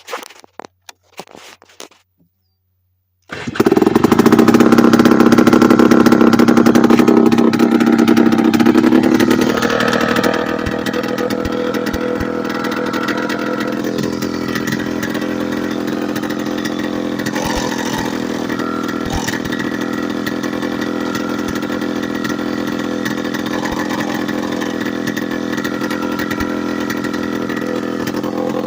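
Late-1990s Polaris Explorer ATV two-stroke engine running with no exhaust pipe or muffler fitted, starting about three seconds in after a few short clicks. It runs loud and high for several seconds, then drops somewhat in pitch and level about ten seconds in and runs steadily; without the exhaust's back pressure the owner says it runs erratically and idles high.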